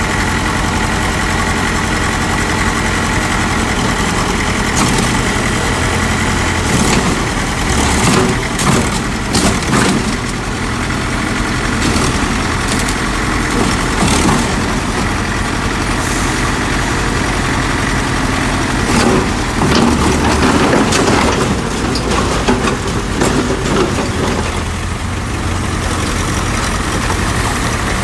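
Heavy diesel engine of earthmoving machinery running steadily, with scattered knocks and clanks through the middle of the stretch.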